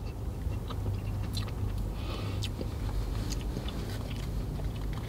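Person chewing a bite of a sauced, sliced pork barbecue sandwich, with small scattered mouth clicks, over a steady low rumble.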